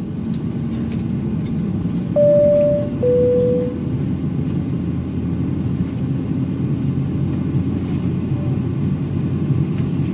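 Steady low cabin rumble inside a Boeing 757-200 airliner. About two seconds in, a two-tone descending chime sounds, high then low, like the cabin chime that comes before a crew announcement.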